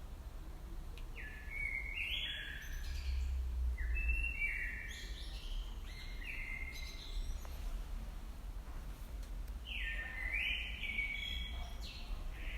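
A songbird singing in quick runs of short, clear whistled notes that step and slide downward, two bouts with a pause between them, over a steady low rumble.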